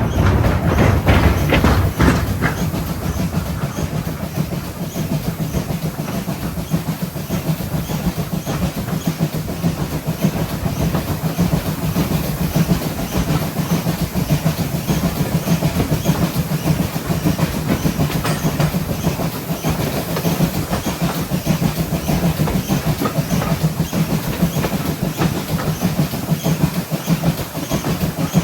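Steam train hauled by GWR 57xx-class pannier tank locomotive 7754, running steadily along the line with a continuous rhythmic clickety-clack of wheels over the rails. There are a few sharper clicks in the first couple of seconds.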